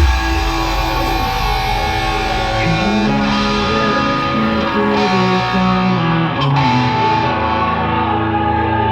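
Music led by an electric guitar playing held notes that step up and down in pitch.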